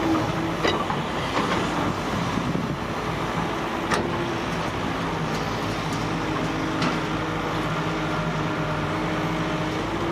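Excavator's diesel engine running steadily at a constant pitch, with a few sharp knocks along the way, the loudest about four seconds in.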